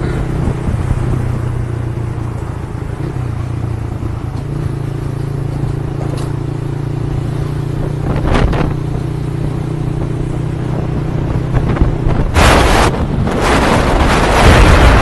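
Motorcycle engine running steadily at an even pitch during a ride, with wind and road rush over it. Near the end come two loud bursts of rushing noise.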